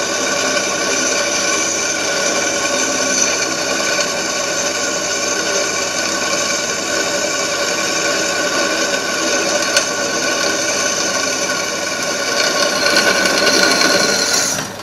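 Electric drill running steadily as it bores a 7 mm hole through steel lubricated with cutting fluid, the motor stopping near the end once the hole is through.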